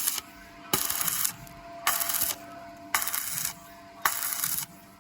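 Electric arc welding on thin square tube in short on-off bursts: the arc crackles for about half a second, stops, and is struck again, five times at about one a second. This is the intermittent stitch technique used to keep from burning through thin-wall tube.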